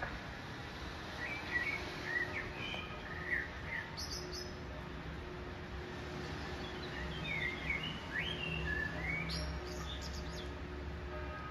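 Birds chirping and twittering in two short bouts, about a second in and again around seven seconds in, over a steady low city rumble.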